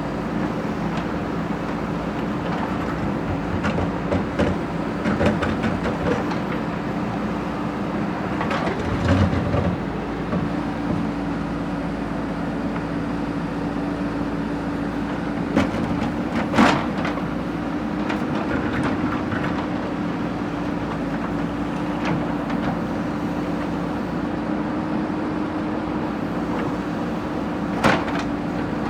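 Backhoe loader's diesel engine running steadily, with a few sharp metallic clanks from the machine working.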